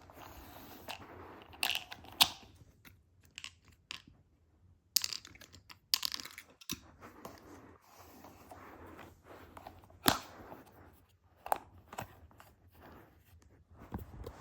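Hard plastic toy pieces and packaging being handled: irregular clicks and knocks, two sharper ones about 2 and 10 seconds in, with rustling and crinkling between them.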